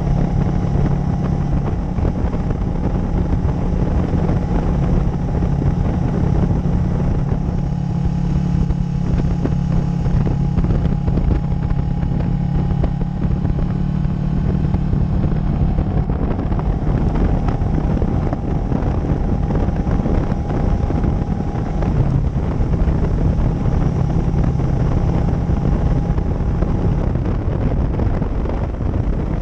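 Motorcycle engine running at a steady speed under way, with road and wind noise on the microphone; the engine's drone eases off near the end.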